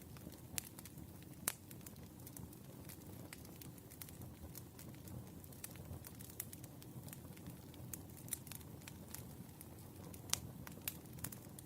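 Firewood burning: a steady low rumble of flames with scattered sharp crackles and pops. The loudest pops come about a second and a half in and again near the end.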